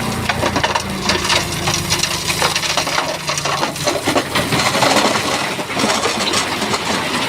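Stones and rock clattering and grinding against each other as a Shantui bulldozer pushes them, a dense run of irregular knocks and cracks. The bulldozer's diesel engine runs low underneath, fading about halfway through.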